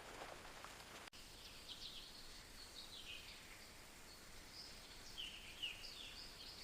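Faint birds chirping: a run of short, high calls, many dropping in pitch, over a light background hiss. The sound cuts out briefly about a second in, and the chirps begin soon after.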